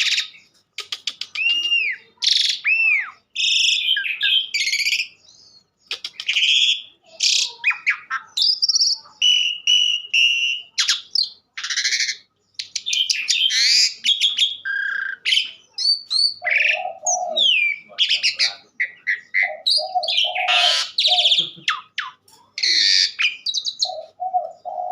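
Asian pied starling (jalak suren) singing nonstop: a fast, varied song of clear whistles, up-and-down sweeping notes, harsh chattering and clicking runs. From about two-thirds of the way through, a lower repeated call joins in a few times.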